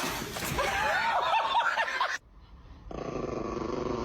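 Dog vocalizing: about two seconds of quick, wavering high whines, a short break, then a lower, steady growling grumble.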